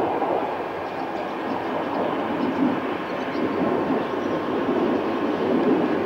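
Metre-gauge train with a smoking locomotive hauling wagons slowly toward the listener: a steady rumble of locomotive and rolling stock with a few faint clicks.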